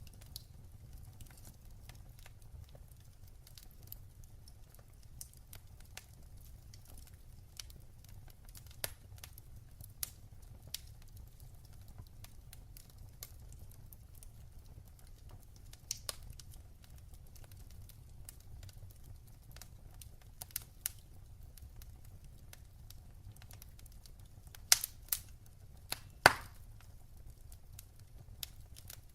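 Fireplace fire crackling: scattered sharp pops and snaps over a low steady rumble, with a few louder pops close together near the end.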